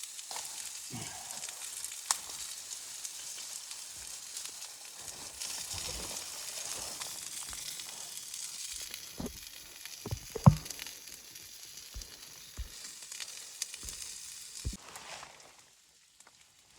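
Food sizzling in a hot pan, a steady frying hiss with scattered knocks of a utensil against the pan, one louder knock about ten seconds in. The sizzle falls away near the end.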